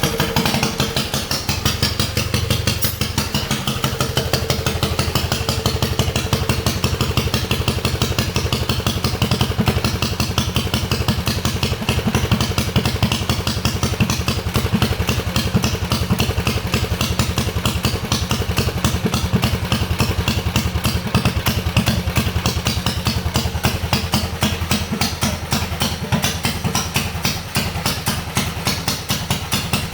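Cammed minibike engine with a stage 1 Tillotson carburetor idling steadily after a cold start, with an even pulsing exhaust beat.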